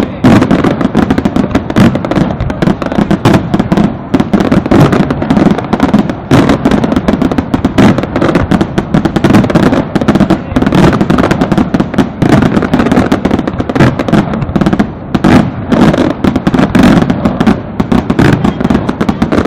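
Aerial fireworks display going off in a dense, continuous barrage of rapid bangs and crackle, with no pause.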